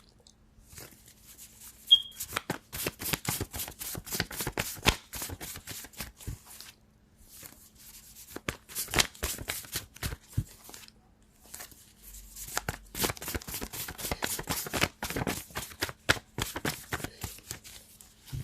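A deck of tarot cards being shuffled by hand: rapid papery flicking and slapping in three long runs, with short pauses between them.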